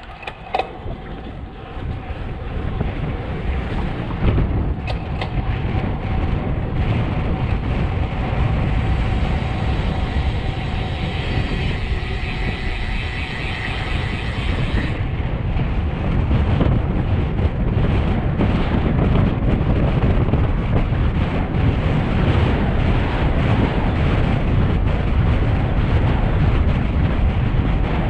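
Wind buffeting the microphone of a road bike descending a mountain pass at speed, over a rumble of tyres on the road. The rush builds over the first few seconds and then holds steady and loud, with a few short knocks near the start.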